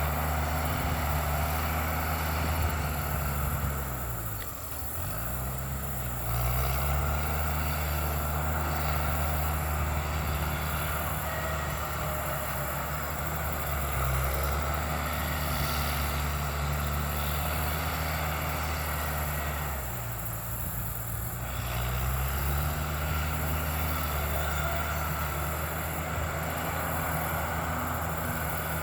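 Bulldozer's diesel engine running steadily, its pitch sagging and recovering twice, about four seconds in and again about twenty seconds in.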